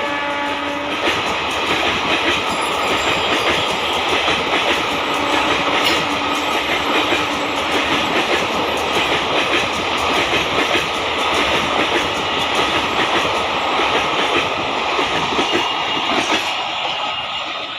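Passenger express train with an electric locomotive passing close by, its wheels clattering steadily over the rail joints. A horn blast cuts off about a second in.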